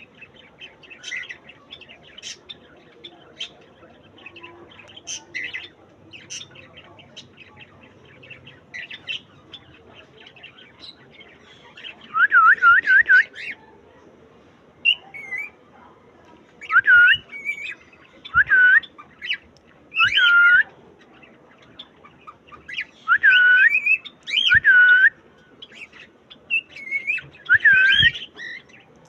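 Cockatiel chirping softly, then, from a little before halfway in, whistling loud repeated phrases of dipping, swooping notes.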